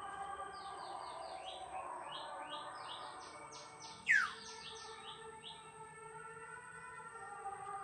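Birds calling: quick series of short chirped notes, and about four seconds in one loud whistled call that sweeps sharply downward in pitch.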